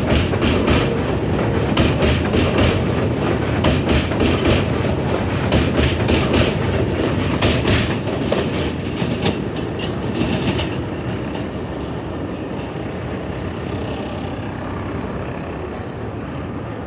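New York City subway train running through the station, its wheels clattering rapidly over the rail joints, the clatter thinning out and fading over the first half. From about halfway a steady high wheel squeal carries on under the continuing rumble.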